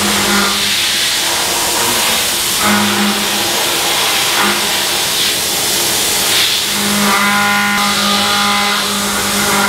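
CNC machining center milling with a high-feed carbide milling cutter: a steady hiss runs under a humming cutting tone that comes in several passes, at the start, around three seconds in, and longest from about seven to nine seconds.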